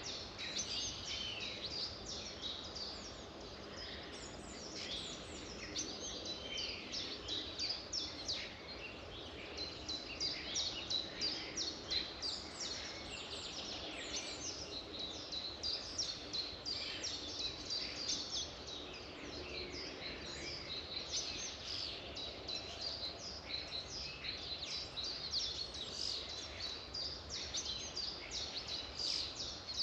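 Several songbirds singing and chirping at once, a dense chorus of quick high notes, over a faint steady background hiss.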